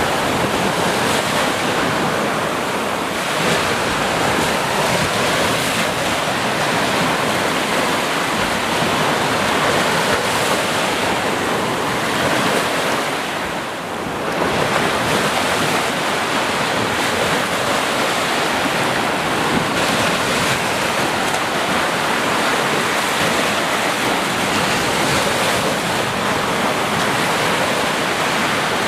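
Sea surf: waves breaking and washing in a continuous rush, easing briefly about halfway through.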